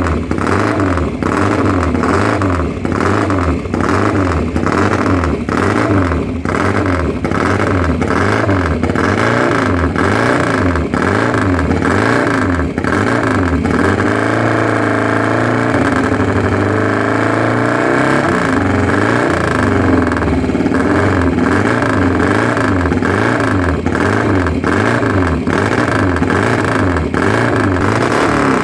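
1953 Matchless G45 race bike's 500cc twin-cylinder engine being revved in repeated throttle blips, rising and falling about once a second, held steadier for a few seconds about halfway through.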